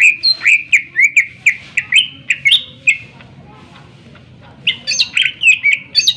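Cucak ijo leafbird singing in a loud, fast run of sharp whistled notes, about four a second, then after a pause of over a second a second run: the bird in full, agitated song.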